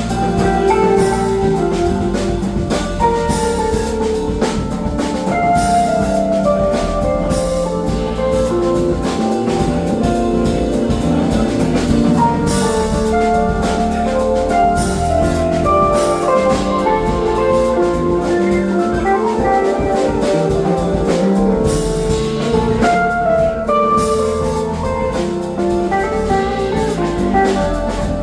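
Live funk band playing an instrumental passage: drum kit keeping a steady beat under bass, guitar and a moving melodic lead line.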